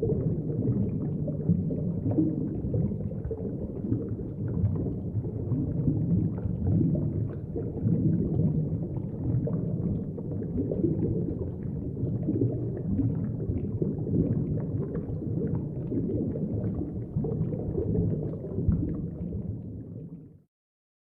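Heavy underwater bubbling: a dense, muffled rumble of bubbles with faint crackles on top, which stops abruptly near the end.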